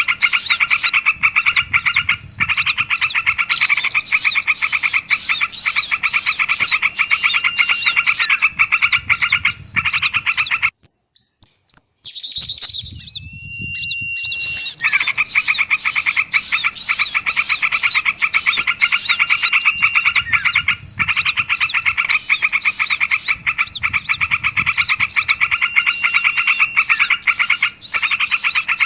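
Small songbirds chattering agitatedly in a bird-lure recording: dense, fast chirps and calls over each other, layered on a rapid pulsing trill. It breaks off about eleven seconds in, a single held whistle sounds briefly, then the chattering resumes.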